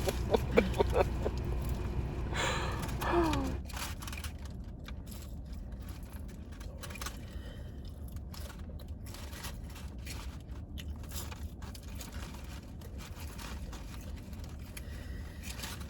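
Someone chewing fast-food fries close to the microphone, with small crunches and wet mouth clicks, over a low steady rumble. A short hummed or gasped vocal sound comes about three seconds in.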